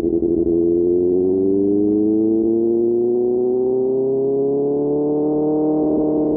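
QJ Motor SRK600 inline-four with an SC-Project exhaust, running at high revs under steady acceleration: a smooth engine note whose pitch climbs gradually and levels off near the end.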